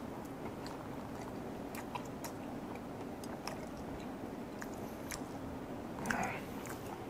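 A person chewing a mouthful of sashimi close to a lapel microphone: small wet mouth clicks and soft chewing, with a brief louder sound about six seconds in.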